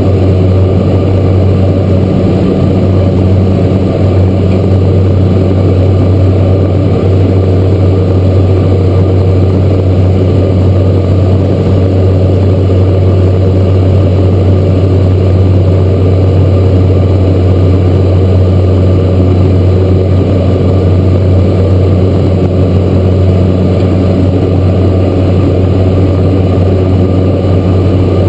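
Cessna Grand Caravan's single Pratt & Whitney PT6A turboprop and propeller running steadily at a constant low power setting, a loud, even hum with steady high tones above it.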